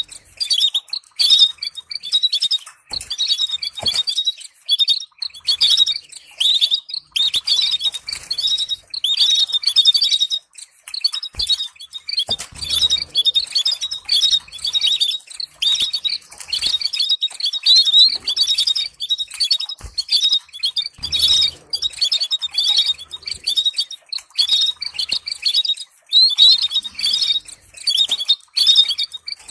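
Canary singing continuously in fast, rolling twittering phrases with short pauses between them, and a few soft knocks in between.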